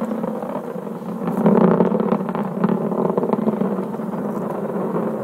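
Atlas V rocket climbing under full thrust: a steady crackling rumble from its RD-180 main engine and five solid rocket boosters, a little louder from about a second in.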